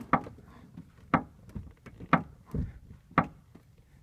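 Short metal creaks from the body panel above the right rear wheel well of a 2003 Ford Mustang Mach 1, pressed by hand: four creaks about a second apart. This is the rear-right creaking noise that the owner cannot yet trace.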